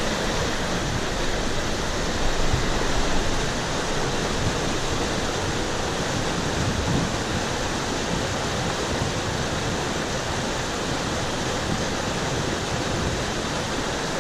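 Monsoon-swollen mountain stream rushing: a loud, steady wash of flowing water.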